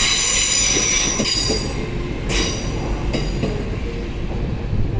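Train wheels squealing against the rails: a loud, high-pitched metallic squeal of several tones at once. It holds for about the first two seconds, comes back briefly twice around the two- and three-second marks, then dies away, leaving the low rumble of the moving train.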